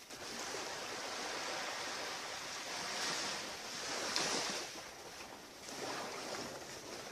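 Waves washing onto a beach: a steady hiss of surf that swells a few times, loudest about four seconds in.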